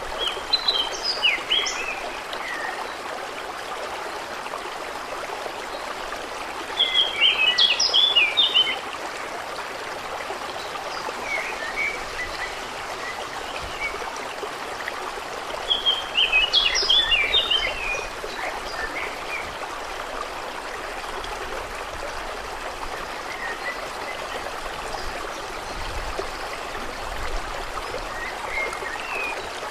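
Steady flowing-water noise, like a stream or lapping lake water, with a songbird singing short bursts of quick notes three times, roughly eight seconds apart, and fainter chirps between.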